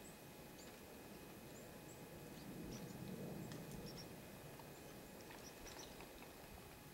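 Small birds giving short, high, faint chirps every so often, with a few soft clicks among them more than halfway through, over a steady low outdoor rumble.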